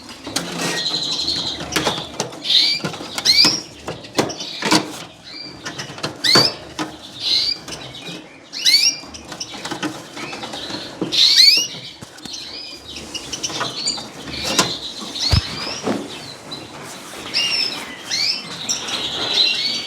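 Canaries chirping with many short rising calls, over clicks and rattles of wire cage fronts as a nest pan is clipped into a breeding cage, with brief wing flutters.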